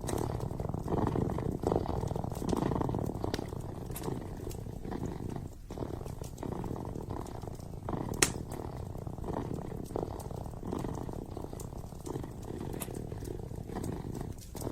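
Kitten purring steadily close to the microphone, with wood fire crackling in a fireplace: scattered small pops, one sharper pop about eight seconds in.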